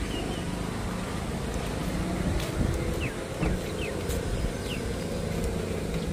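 Several short, falling bird chirps over a steady low rumble.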